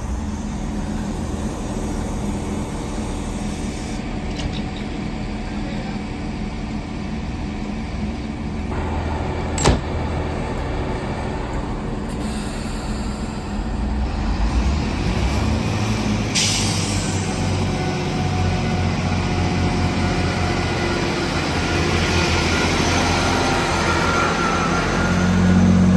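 Diesel train's engine running at the platform with a steady low hum. About ten seconds in there is a sharp knock, and around sixteen seconds in a burst of air hiss. The engine grows louder through the second half, as when the train powers away.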